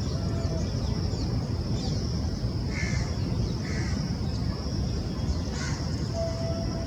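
Crows cawing, about three calls in the middle stretch, over a steady low rumble and a constant thin high-pitched hiss.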